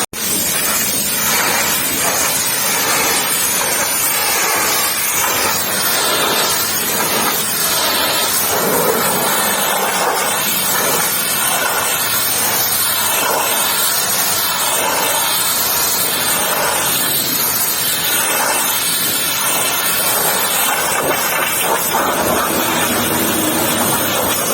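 Pressure washer spraying a steady jet of water, a loud continuous hiss and rush.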